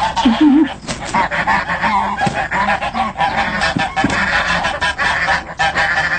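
A flock of birds calling loudly over one another without a pause.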